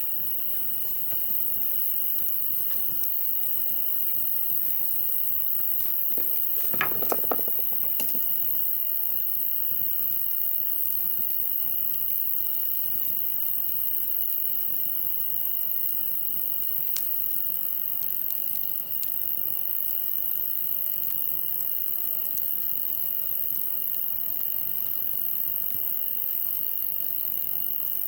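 Wood campfire crackling with scattered sharp pops, over a steady high-pitched drone of insects. About seven seconds in there is a louder cluster of crackles and knocks.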